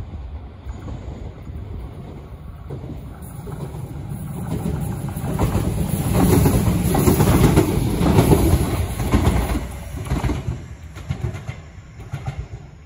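Shizuoka Railway A3000-series electric train passing close by on the rails. Its noise builds over a few seconds, is loudest in the middle, then fades as the train goes by.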